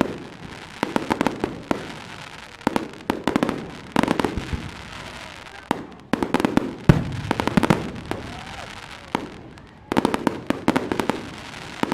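Fireworks going off: irregular clusters of sharp cracks and bangs, each with a short echo, the loudest cluster about seven seconds in.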